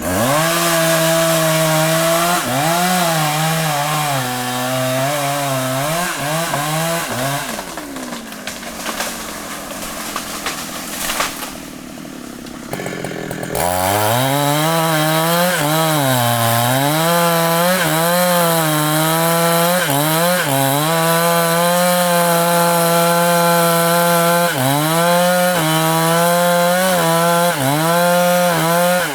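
Large Husqvarna two-stroke chainsaw cutting into a thick rain tree trunk, its engine pitch dipping and recovering as the chain bogs under load. About seven seconds in it falls back to a low idle for several seconds, then revs up again and cuts on.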